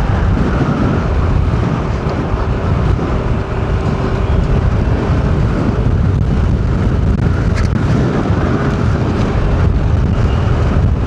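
A car driving at a steady pace: a constant low rumble of road and engine noise, with a faint steady hum that comes and goes.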